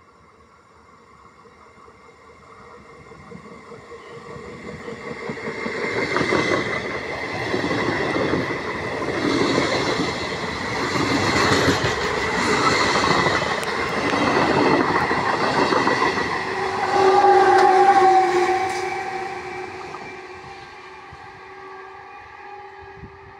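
Trenord electric regional train approaching and passing close by: its rumble builds, then the wheels clatter loudly and rhythmically over the rails as the coaches go past, and the sound fades. Near the end a train horn sounds, one steady tone held for about two seconds, followed by a fainter tone.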